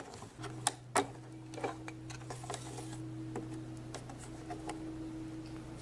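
Light plastic clicks and taps from a Play-Doh toy set being handled, a few sharp ones in the first second and fainter ones after, over a steady low hum.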